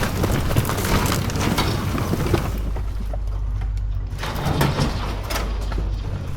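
A heavy machine's engine running steadily, with rough scraping and crunching of demolition debris. The scraping stops about two and a half seconds in and starts again about four seconds in.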